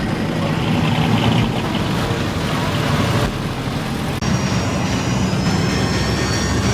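Vehicle engines and traffic noise, with an abrupt change about four seconds in.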